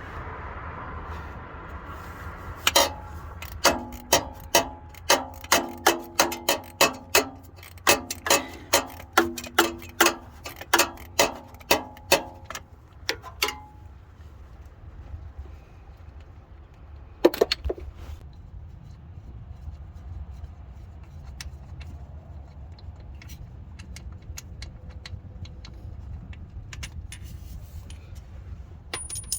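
A run of sharp metallic clicks, about two a second for some ten seconds, from a ratchet wrench working on a starter mounting bolt, then a single loud metal knock. A low steady hum runs underneath.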